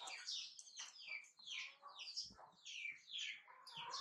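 Small birds chirping: a steady run of short, high chirps, several a second, each falling in pitch.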